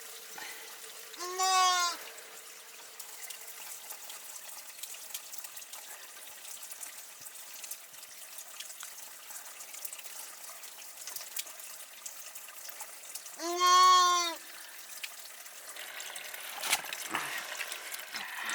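A steady low trickle of water or simmering hiss, broken twice by a loud, drawn-out sheep bleat, once about a second in and again past the middle.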